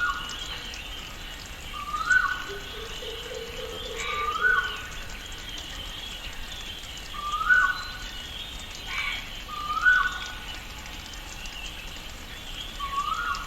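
Tropical rainforest ambience: a bird repeats a short rising call about every two to three seconds, with higher chirps from other birds over a steady hiss. A lower, drawn-out call comes a few seconds in.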